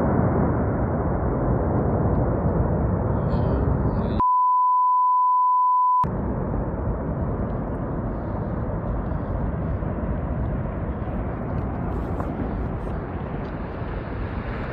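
A loud, low rushing noise of storm wind buffeting the microphone. About four seconds in it is replaced by a steady 1 kHz censor bleep lasting nearly two seconds, then the rushing returns.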